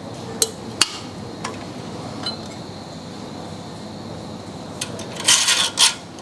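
Handling noises from unboxing a model truck: a few sharp separate clicks and clinks, then a short flurry of louder clattering and rustling about five seconds in.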